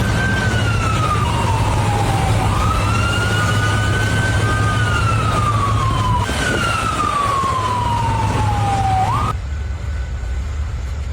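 Emergency vehicle siren wailing in slow sweeps, gliding down and back up over a steady low rumble. It cuts off suddenly about nine seconds in.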